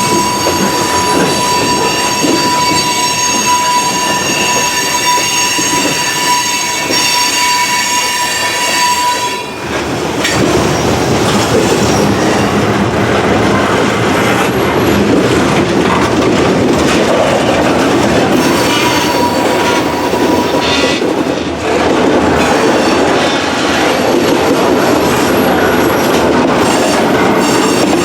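Freight train rolling by on steel rails. For the first nine seconds or so the wheels squeal steadily at a high pitch, then the squeal gives way to the rumble and clatter of the cars over the track.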